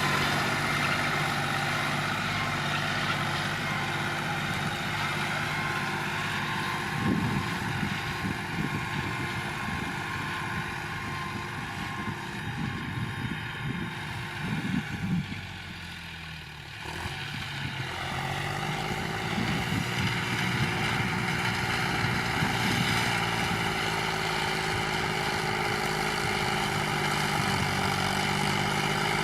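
John Deere tractor engine running steadily under work, dropping in level briefly past the middle and then picking up again.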